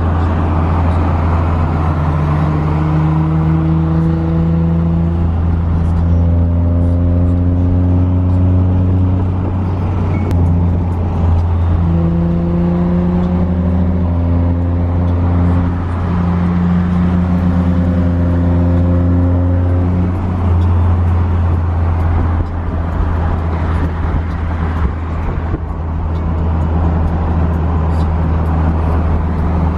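A car driving at freeway speed: a steady low drone of engine and road noise, with the engine's note rising gently and dropping back several times as it pulls.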